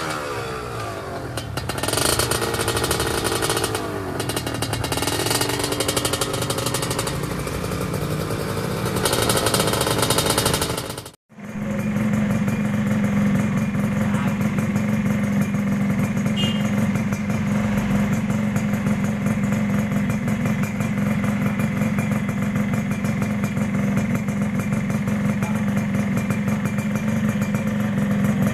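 Two-stroke underbone motorcycle engines running through racing exhausts. The first is revved up and down several times. After a sudden cut, a second is held at steady revs.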